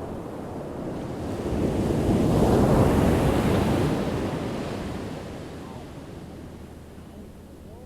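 Ocean surf: a single wave surging in and breaking, building to its loudest about three seconds in, then washing back out and fading.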